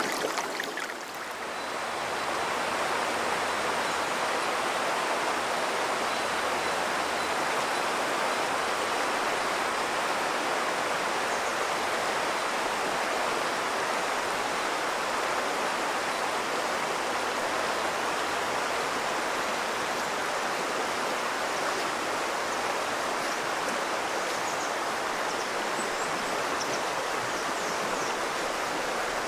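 Azusa River, a clear snowmelt mountain river, babbling steadily in its shallows. It dips briefly about a second in, then runs on at an even level.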